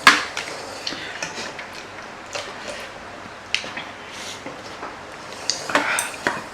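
Quiet eating noises: small clicks and taps of utensils against the noodle tray, with chewing. A sharp click comes right at the start, and a short rustling noise near the end.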